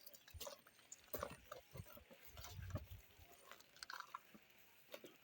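Faint scattered clicks and taps, with a short low rumble a little after halfway.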